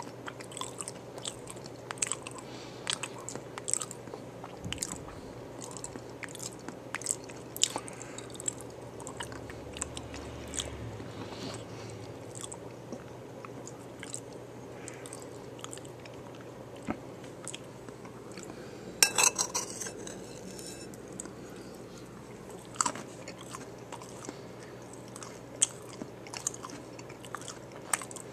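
Close-miked mouth sounds of a person eating a taco bowl: bites and crunches of the hard tortilla shell mixed with chewing. The crunches are irregular, with the loudest cluster a little past two-thirds of the way through.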